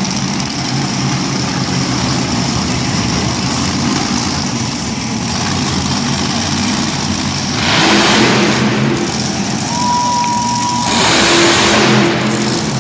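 Monster truck engine running, with two loud surges of revving, one about two-thirds of the way through and one near the end.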